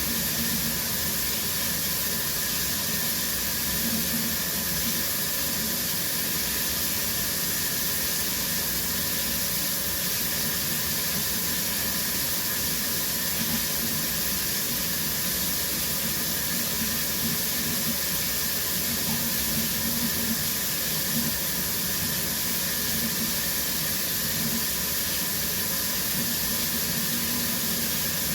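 Shower running steadily: a constant hiss of water spraying from the shower head and splashing down.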